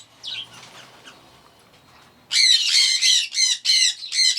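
Caged pet bird squawking: after faint calls early on, a loud run of harsh, repeated squawks starts about halfway through, around four a second.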